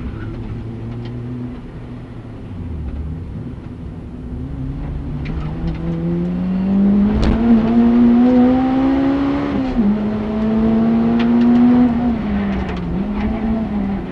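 Honda Civic Type R EP3's 2.0-litre four-cylinder engine heard from inside the cabin, accelerating hard with its pitch climbing steadily. The pitch drops sharply about ten seconds in, as at an upshift, then climbs again before sagging as the car slows near the end. A single sharp knock comes a little past the middle.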